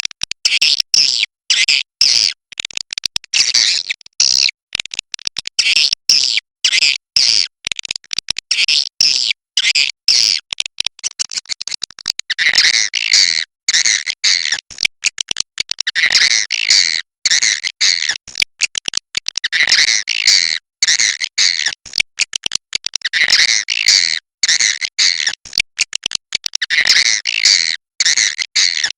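Swiftlets giving rapid, dense chirping twitters in phrases broken by short silent gaps, fuller and lower from about halfway through. This is the swiftlet roosting call ('suara inap'), the kind of recording played to draw swiftlets in to roost.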